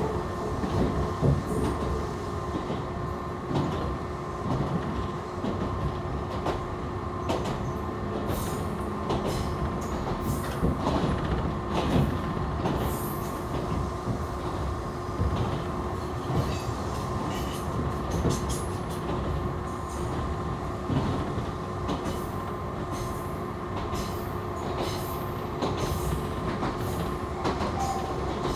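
Echizen Railway local electric train heard from inside the carriage while running: a steady rumble of wheels on rail with a constant whine, and scattered clicks and knocks from the track.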